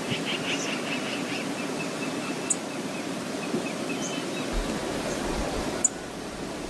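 Steady rush of Brooks Falls and the river below it. Wind buffets the microphone with a low rumble from about four and a half seconds in, and a quick run of short high chirps comes near the start.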